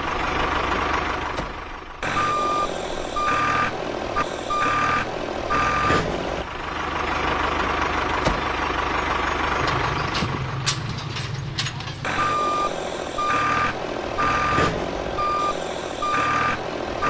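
Vehicle engine running with a reversing alarm beeping repeatedly. The beeps come in two runs, a few seconds in and again near the end.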